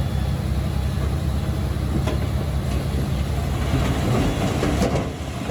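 Komatsu D21P crawler bulldozer's diesel engine running steadily, with the steel tracks clanking and rattling as it works.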